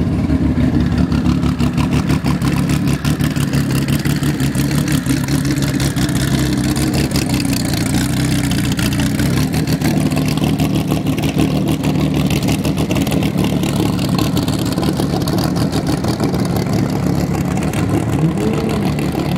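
Car engine running steadily close by at a low, even speed, its exhaust pulsing rapidly.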